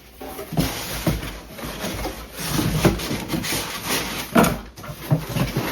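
Boxes being pulled out and shifted about: rustling and scraping, with several knocks.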